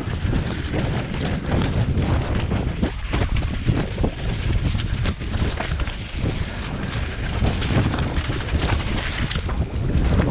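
Heavy wind buffeting on the microphone, mixed with many short knocks and rattles.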